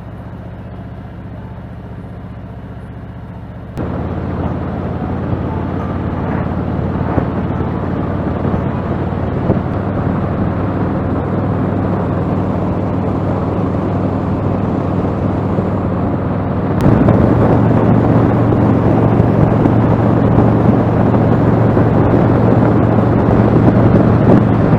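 Motorcycle engine running at a steady note while riding, under a rushing noise. The sound gets suddenly louder twice: about four seconds in and again about two-thirds of the way through.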